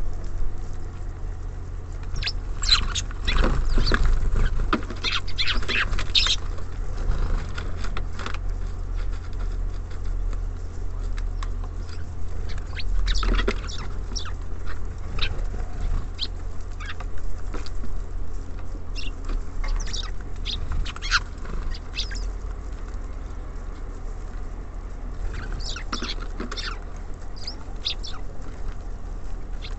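Small birds pecking and scrabbling at seed on a bird feeder: irregular runs of quick, sharp taps and clicks, thickest in a few clusters, over a steady low hum.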